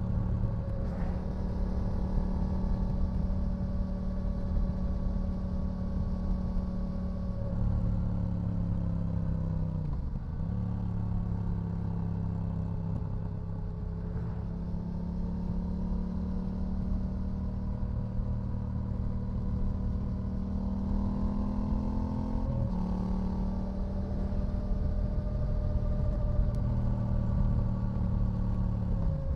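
2018 Yamaha XSR700's 689 cc parallel-twin engine running through a full LeoVince LV One EVO exhaust system. Its pitch rises and falls slowly with the throttle, with several quick drops that recover at once.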